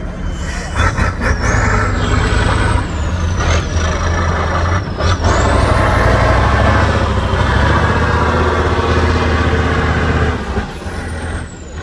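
Trial truck's engine working hard under load, with a high whine rising over it, dropping away about ten and a half seconds in. Two short hisses of air cut in about three and a half and five seconds in.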